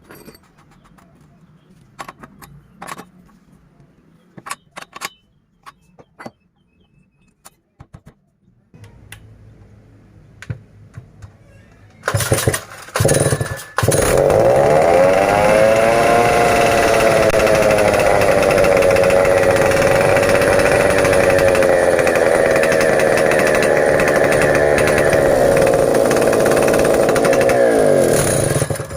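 Stihl 070 chainsaw's big single-cylinder two-stroke engine. After some scattered clicks and knocks, it fires in a few short stuttering bursts about halfway through, then starts and runs loud and steady at speed, its pitch wavering slightly, before cutting off just before the end.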